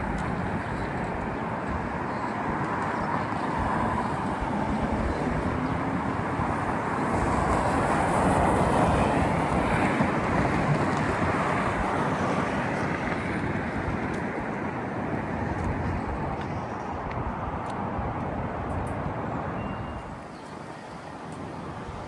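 Street traffic going past, a steady rush of tyres and engines that swells as a vehicle passes about a third of the way in and eases off near the end.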